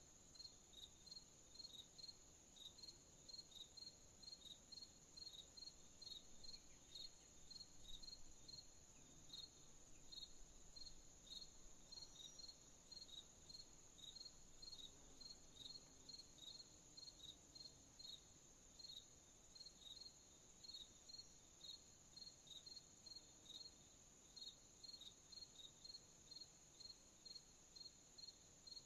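Crickets chirping in a steady, evenly spaced rhythm, a few chirps a second, over a continuous higher-pitched insect trill.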